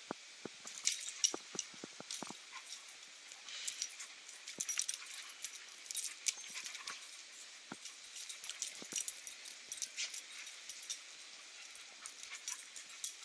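Two dogs play-wrestling: scuffling with many scattered sharp ticks and clicks.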